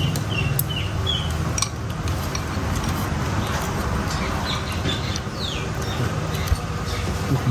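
Birds chirping, with a quick run of short high chirps in the first second and a few falling calls around the middle, over a steady low hum. A few light clinks of a metal spoon against a bowl come through.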